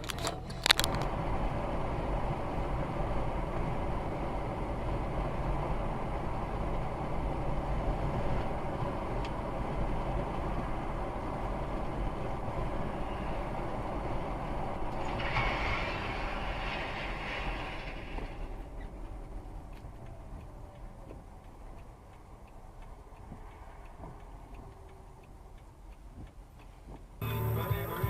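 Steady vehicle running noise, a dull rumble with hiss, with a brief louder stretch about halfway through and then fading to a quieter level.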